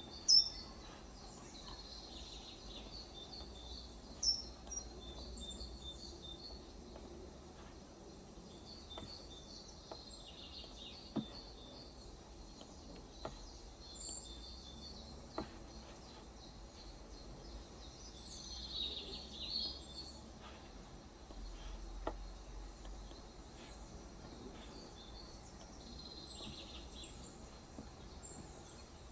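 Small birds chirping and twittering, with louder bursts of calls twice in the second half. A few sharp single clicks are spread through it over a low steady hum.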